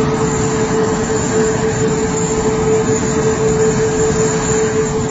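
Jet aircraft engine running steadily: a rushing roar with a steady, unchanging whine.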